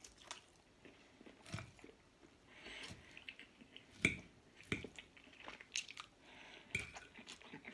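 A person chewing and biting into glazed ham with the mouth close to the microphone: faint wet chewing, with a scattered handful of short mouth clicks and smacks.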